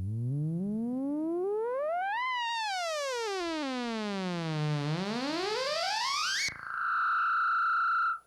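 Synthesizer tone sliding up in pitch for about two seconds, back down, then sharply up again until it cuts off, followed by a higher steady tone held for about a second and a half that stops abruptly.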